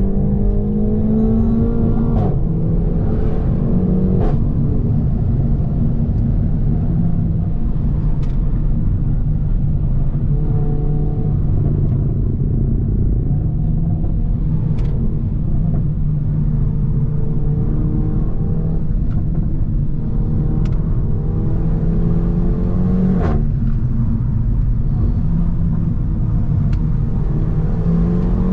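Renault Mégane RS 280's 1.8-litre turbocharged four-cylinder droning through a catless exhaust while driving, its note stepping down with gear changes about two seconds in, again about four seconds in and near the end, each marked by a sharp crack. A few more short sharp cracks come in between.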